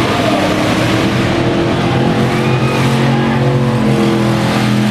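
Several demolition derby cars' engines running at once, loud and steady, with their different engine notes overlapping.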